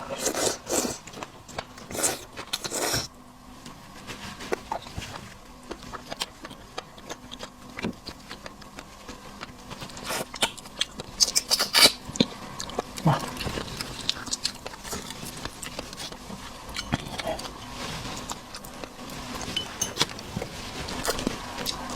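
Close-up eating of seafood: wet chewing and mouth smacks, with many small sharp clicks and a couple of denser bursts near the start and about 10 seconds in.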